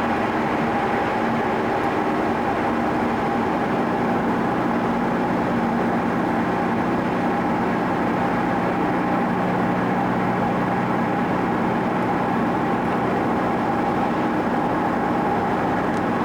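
Steady engine hum and road noise of a car cruising at an even speed, heard from inside the cabin.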